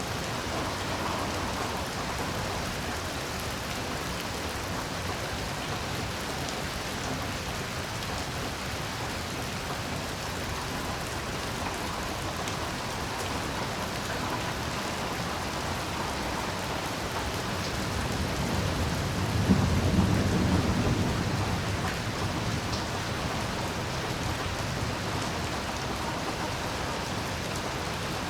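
Steady heavy rain, with a low rumble of thunder rising about two-thirds of the way in, peaking sharply and then fading.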